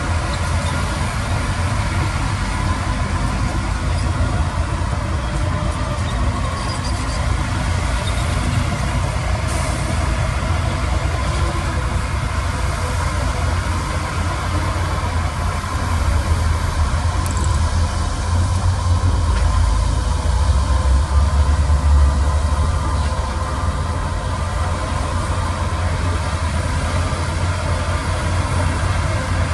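Heavy construction-machine diesel engine running steadily with a deep low rumble, a little louder past the middle.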